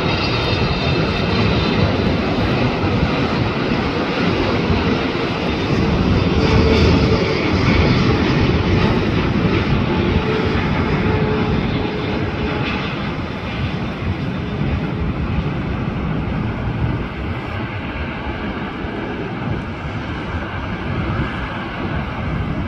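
Jet airliner's engines running as it passes on its landing approach, a steady rushing sound that is loudest about seven seconds in and slowly fades after. A faint steady tone runs through the first half.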